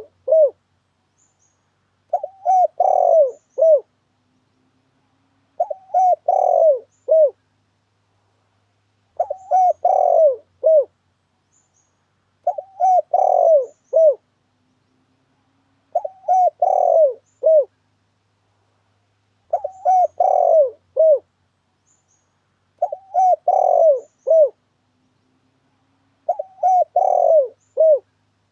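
Spotted dove (tekukur) lure call: the same short cooing phrase of a few notes, repeated very evenly about every three and a half seconds. It is the call used to draw wild spotted doves into a trap.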